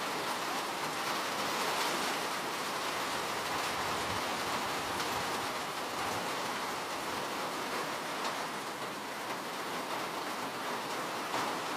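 Steady rain falling, a dense even hiss of many drops with faint scattered drop ticks.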